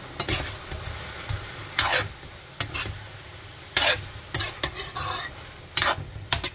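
Chicken pieces sautéing in a wok with garlic, onion, tomato and ginger: a steady sizzle, with about eight sharp spatula scrapes against the pan at irregular spacing as the pieces are stirred.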